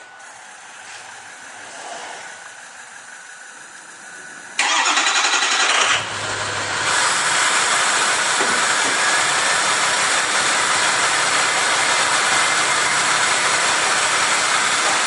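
2006 Ford F-250's 6.0 Power Stroke V8 turbo-diesel starting up through a 4-inch straight-pipe exhaust. It fires suddenly about four and a half seconds in, then settles into a loud, steady idle with a strong hiss, sounding like a big jet.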